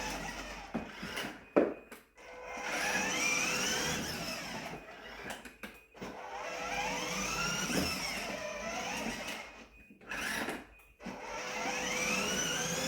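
A small motor whining, its pitch rising again and again as it speeds up, in three stretches broken by sudden dropouts.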